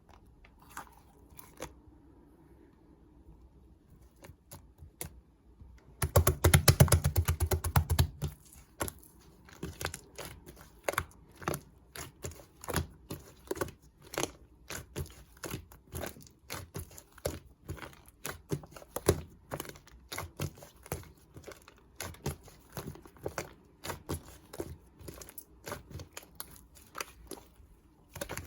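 Slime being pressed and squished by hand, giving sticky clicks and small pops. A loud, dense run of rapid clicks comes about six seconds in and lasts some two seconds, then irregular clicks and pops follow.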